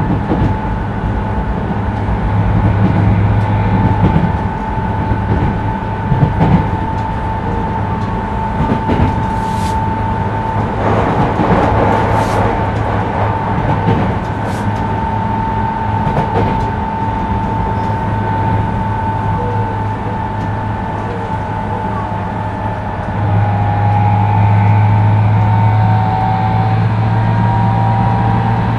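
Onboard running sound of a Tokyu 2000 series electric train: a steady rumble of wheels on rail, a steady VVVF inverter and traction-motor whine, and scattered clicks. About two-thirds of the way through, the motor hum grows louder and the inverter whine starts to climb in pitch as the train powers up.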